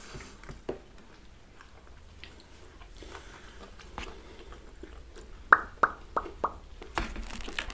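Close-miked chewing of pizza, with faint wet mouth sounds, then a quick run of four or five sharp clicks about five and a half seconds in.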